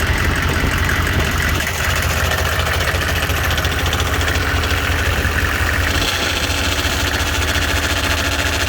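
6.5 L turbo diesel V8 idling steadily with an even diesel clatter. The owner hears a noise he puts down to a vacuum pump that he feels is going to go soon.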